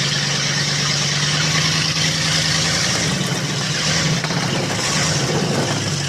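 Monster truck's engine running steadily: a constant low hum under a wash of noise.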